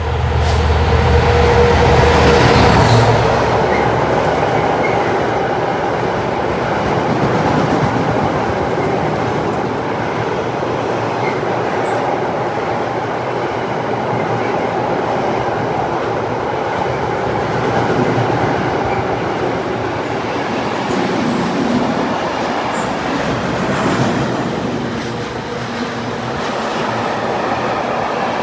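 A locomotive-hauled train passing close by: the locomotive's engine note is loudest in the first three seconds, then a long steady rolling rumble with some clatter as the train's vehicles go past.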